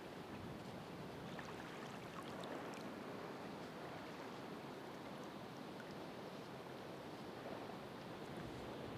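Calm ocean waves washing on a shore, a steady rushing wash that swells gently, with faint scattered high ticks through it.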